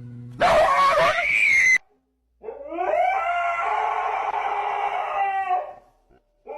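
A dog howling: a short loud cry about half a second in, then one long howl of about three seconds that rises at the start and then holds.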